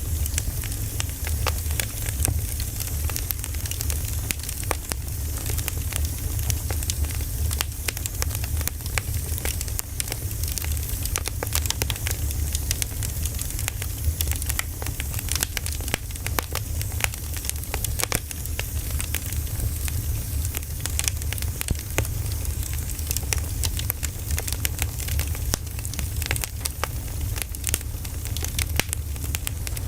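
Firewood burning, crackling with frequent irregular small snaps over a steady low rumble and hiss.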